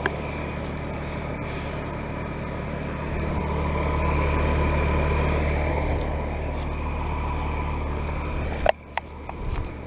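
Carrier Comfort Series heat pump outdoor unit running in cooling mode: steady low hum of the scroll compressor with the whoosh of the condenser fan and a faint steady tone. The sound drops sharply with a click near the end.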